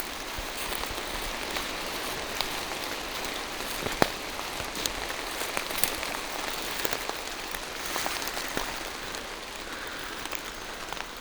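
Steady rain falling through forest trees: an even hiss with scattered sharp taps, one louder about four seconds in.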